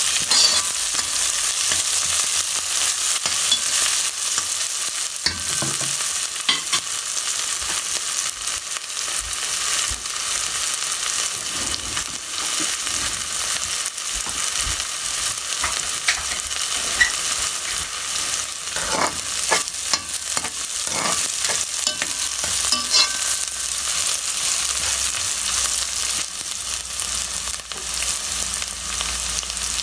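Curry ingredients sizzling as they fry in oil in a pan, a steady hiss with occasional clicks and scrapes of a utensil stirring them.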